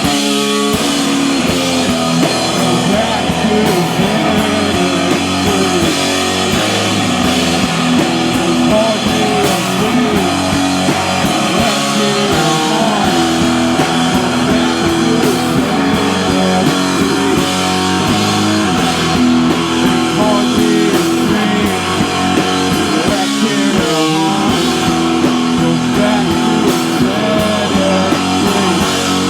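Live rock band playing a song, loud and unbroken.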